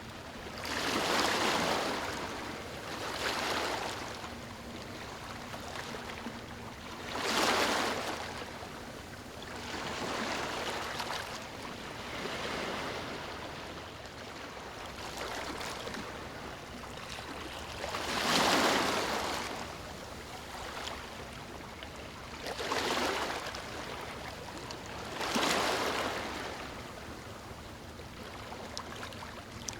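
Gentle waves lapping on a beach: each wash swells into a hiss of water and fades again, arriving every few seconds at irregular intervals, some noticeably louder than others.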